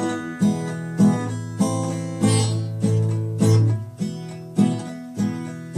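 Acoustic guitar playing chords, one struck a little under twice a second, each ringing out and fading before the next.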